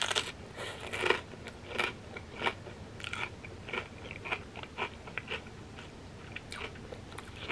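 Biting into a crisp fried wonton chip loaded with cheesy dip and chewing it: a loud crunch at the start, then a run of crunchy chews about every two-thirds of a second that grow softer.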